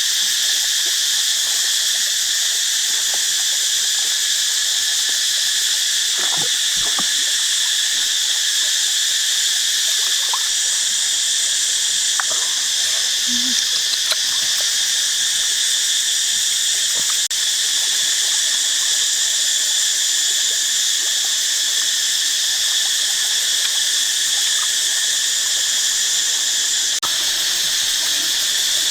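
Loud, steady chorus of insects, a continuous shrill high drone that starts abruptly, with a few faint short calls under it.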